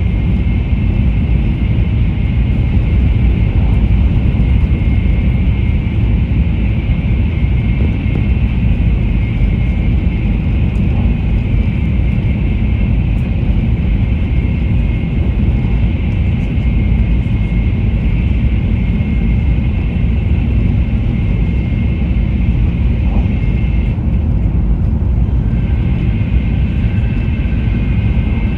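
Taiwan High Speed Rail bullet train running, a steady loud rumble with a faint high whine held above it. The whine changes pitch briefly about 24 seconds in.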